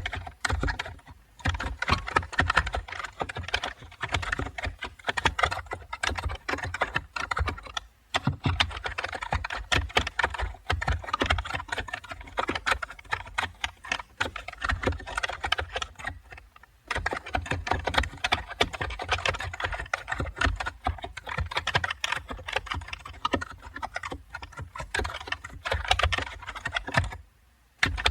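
Typing on a computer keyboard: quick, irregular runs of key clicks broken by a few short pauses, the longest one near the end.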